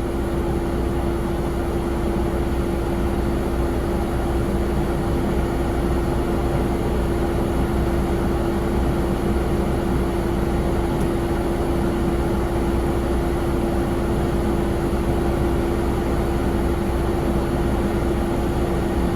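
Steady jet aircraft noise: a constant droning tone over a low rumble, unchanging throughout.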